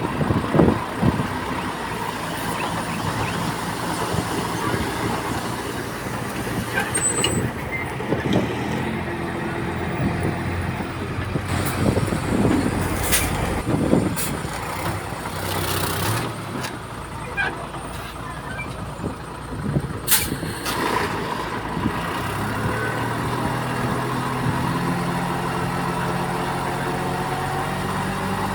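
Bulldozer's heavy diesel engine working under load, with scattered sharp clanks and short hisses; the engine settles to a steadier tone over the last few seconds.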